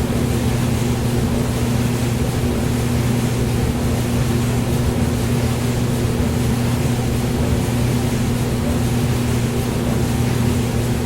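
Hair dryer running steadily, a constant rush of blown air over a low motor hum, used as white noise.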